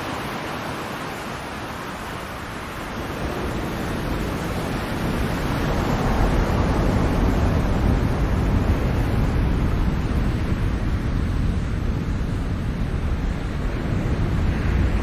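Ocean surf: a steady wash of waves with a deep rumble, swelling louder about three to six seconds in as a wave builds and then holding.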